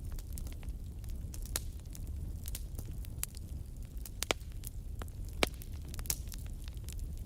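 Wood campfire crackling, with irregular sharp pops and snaps, two of them louder than the rest in the second half, over a steady low rumble.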